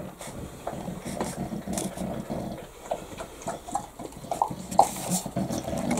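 A dog growling, with scattered small clicks and scuffles.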